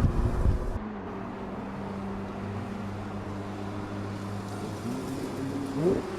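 Porsche 911 Speedster's four-litre naturally aspirated flat-six. It is loud and heavy for the first second, then, after an abrupt change, runs at a steady even hum. Just before the end the revs rise sharply in a quick blip.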